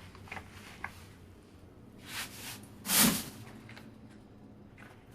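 Two light clicks, a brief rustle, then one loud thump about three seconds in: things being handled and set down.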